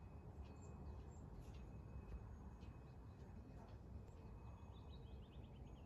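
Faint birdsong: scattered short chirps and a quick trill near the end, over a low steady rumble.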